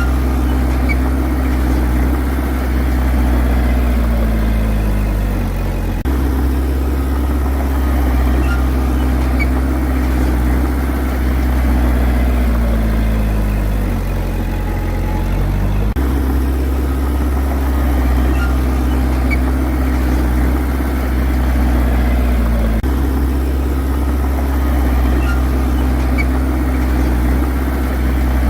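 Heavy diesel engine of earthmoving machinery running hard. Its pitch sags gradually a couple of times, then jumps back abruptly.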